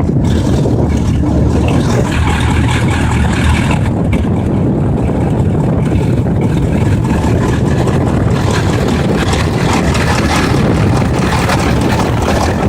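1982 Cummins V555 marine V8 diesel running steadily, warming up shortly after a cold start.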